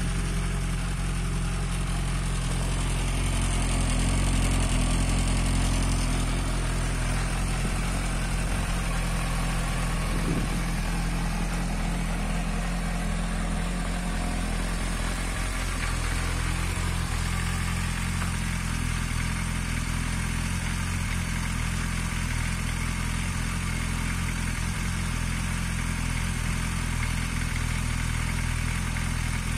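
Suzuki Bandit 1250's inline four-cylinder engine idling steadily.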